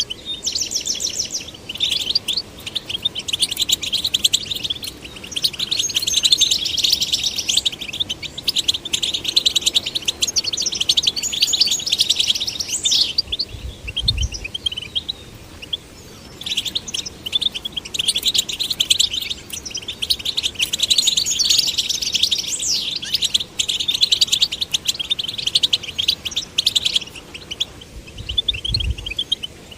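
European goldfinch song: long, rapid twittering phrases of fast, varied notes, broken by short pauses about halfway through and near the end. A couple of soft low thuds fall in the pauses.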